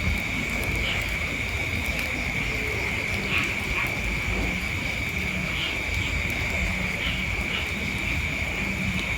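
A steady high-pitched insect drone, like a night chorus of crickets or cicadas, with a low rumble beneath it.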